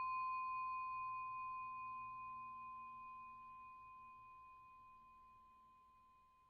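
A single pure, bell-like ringing tone with faint higher overtones, slowly fading away.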